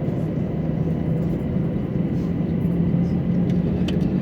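Airliner engines running with a steady rumble and a constant low drone.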